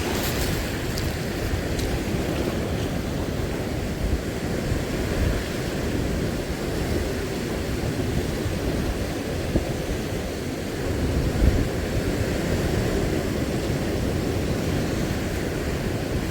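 Sea surf washing onto the shore, with wind buffeting the microphone in a steady, heavy rumble.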